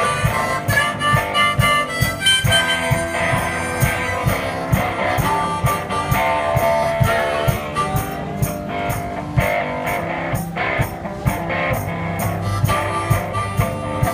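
One-man band playing blues-style harmonica over guitar, with a steady low beat underneath.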